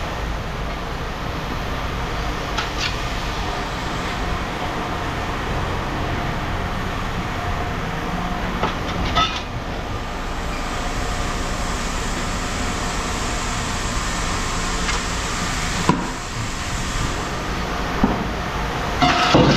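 Steady rumbling machinery noise with a low hum, broken by a few sharp metal clanks and knocks, the clearest about 3, 9 and 16 seconds in.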